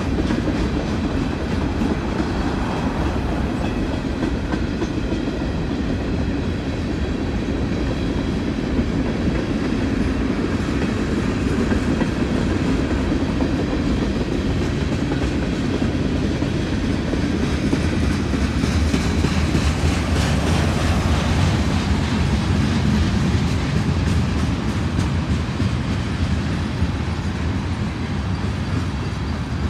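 CSX freight train rolling past: a steady noise of steel wheels running on the rails as loaded container cars and then tank cars go by.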